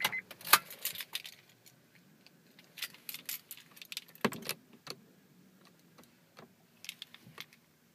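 A set of keys jangling and clicking in short, irregular bursts, as the minivan's key is handled when the engine is turned off.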